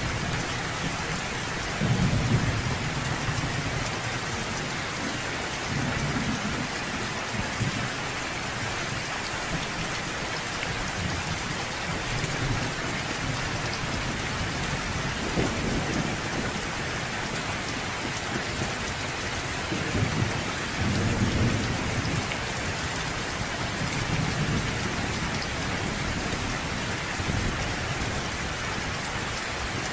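Steady rain falling in a thunderstorm, with low rolls of thunder rumbling up again and again, roughly every four to five seconds.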